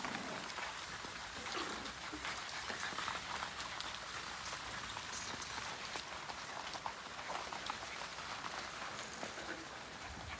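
French Bulldog puppies moving about, a dense patter of small clicks and scuffles, as of paws and claws on a floor, over a steady hiss.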